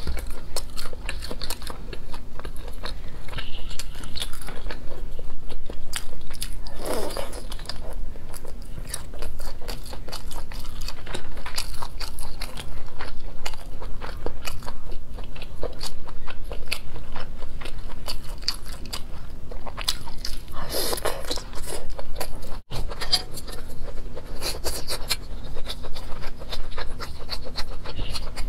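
A person chewing and biting a grilled black-pepper sausage: steady wet mouth clicks and smacks of chewing.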